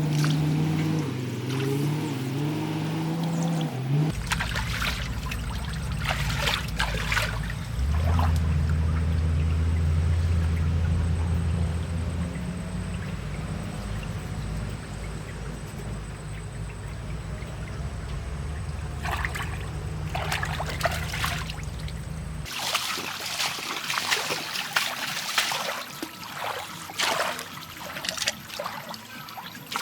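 A JCB backhoe loader's diesel engine runs over river water trickling and splashing. The engine varies in pitch for the first few seconds, then settles into a steady low running. About 22 seconds in, the engine sound drops away, leaving irregular splashing water.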